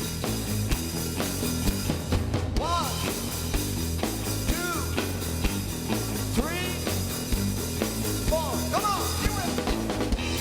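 Live rock band playing an instrumental passage over a steady drum beat, with an electric guitar bending notes up and back down several times.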